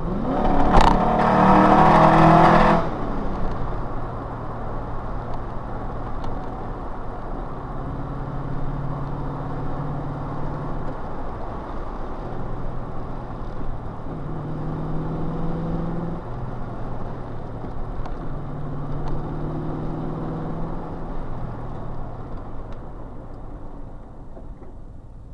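Rover SD1 3500's 3.5-litre V8, breathing through twin SU carburettors and a stainless sports exhaust, heard from inside the cabin. It is loud for about two seconds just after the start as the car enters a tunnel. The engine then runs more quietly, pulling in spells of a few seconds each with eases of the throttle between.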